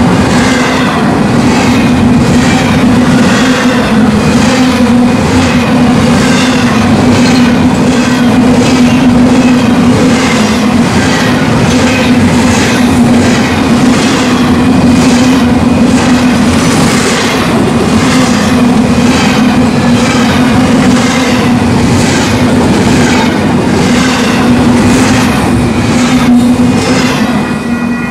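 Union Pacific intermodal freight train rolling past: a steady rumble and hum with a repeating clatter of wheels over the rail joints, easing slightly near the end.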